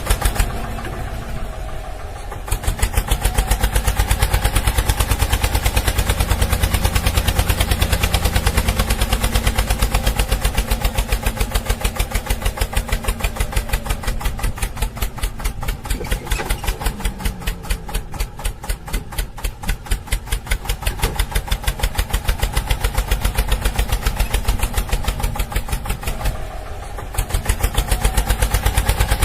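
Small engine running with a fast, even beat of firing pulses; it eases off briefly about 26 seconds in, then picks up again.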